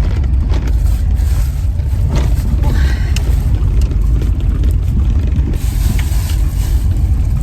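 Car on the move: a loud, steady low rumble of road and engine noise inside the cabin.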